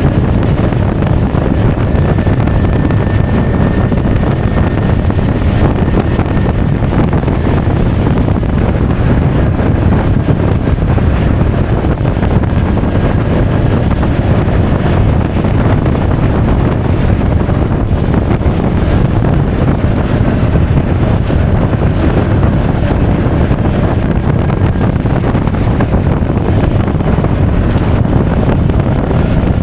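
Steady wind rush buffeting the action camera's microphone while riding a Honda Forza 350 scooter at speed. The scooter's engine and tyre noise run underneath at an even level.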